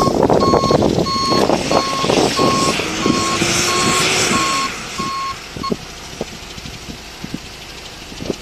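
A vehicle's reversing alarm beeping about twice a second, stopping about six seconds in, over rustling and scattered knocks.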